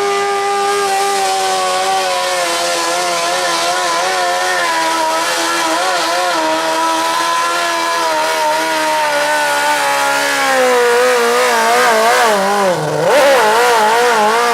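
Modified lawn tractor's engine running hard under load while pulling the weight drag. Its pitch sinks slowly as the drag bogs it down, then wavers and dips sharply near the end.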